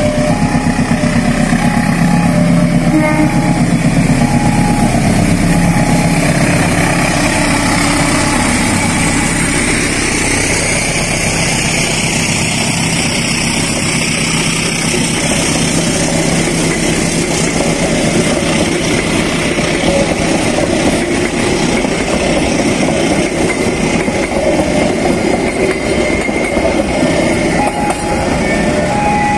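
A diesel-hauled passenger train passes close by over a level crossing. The locomotive's engine drones in the first few seconds, then the coaches roll past with steady wheel-on-rail clatter and faint high squeals. The crossing's warning signal beeps in a repeating two-note pattern at the start and again near the end.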